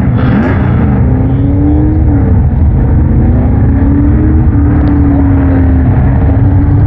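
Several Pro Truck race engines running together, their pitches rising and falling as the trucks circle, over a steady low drone.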